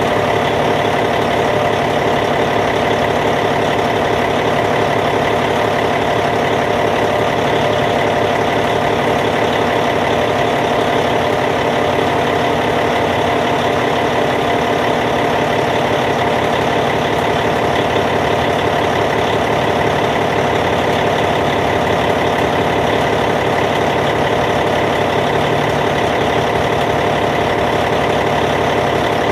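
Caterpillar C15 diesel engine of a Cat D8T bulldozer idling at a steady, even speed.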